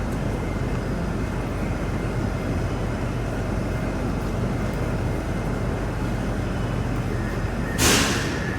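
Steady rumble and hum of a metro train, with a short, sharp hiss of air near the end.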